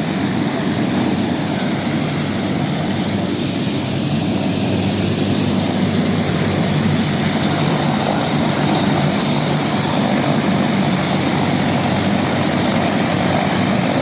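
Air ambulance helicopter running steadily, with a constant high turbine whine over a dense low rotor and engine noise.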